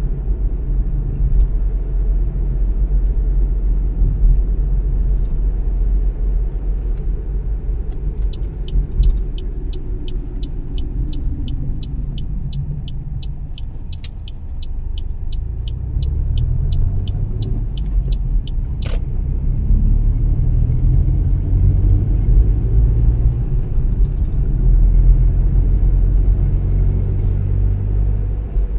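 Car driving on the road, heard as a steady low engine and tyre rumble that eases off for a few seconds partway through, then builds again as the engine pulls away. Through the slow part there is a regular ticking, about two to three ticks a second, lasting some ten seconds.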